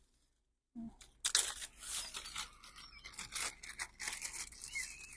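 Food packaging being rummaged through and torn open, crinkling and rustling in irregular bursts after a brief silence.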